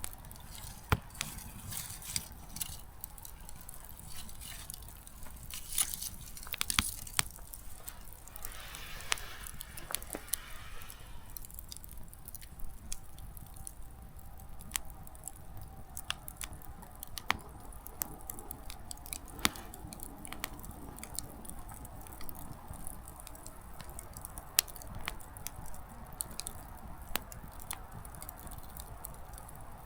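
Small wood fire crackling, with frequent irregular sharp pops of burning firewood and a brief rushing hiss about nine seconds in.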